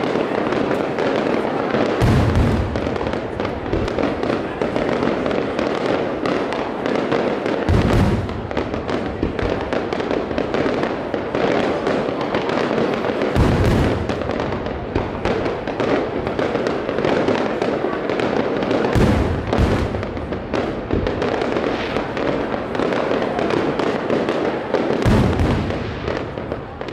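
Aerial fireworks display: a continuous barrage of bangs and crackling from many shells bursting, with a heavier deep boom about every five to six seconds, five in all.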